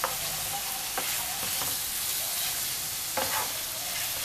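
Beef liver strips sizzling in hot lard in a large nonstick frying pan, stirred with a wooden spoon. The spoon scrapes the pan a few times over the steady sizzle.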